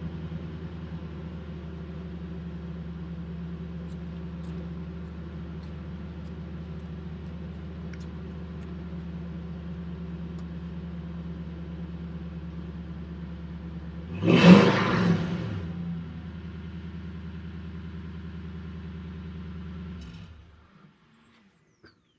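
Toyota Tundra's 5.7 V8 idling steadily through its exhaust, with one short rev of the throttle about 14 seconds in, then the engine shut off near the end.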